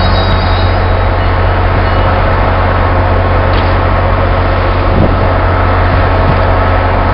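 Commuter train rolling slowly past: a steady loud rumble with a constant low hum. A high wheel squeal dies away in the first second.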